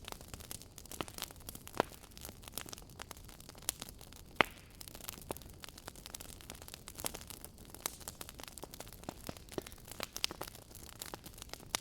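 Wood fire burning in a fireplace, crackling steadily over a low hiss. Irregular sharp pops are scattered throughout, the loudest about four and a half seconds in.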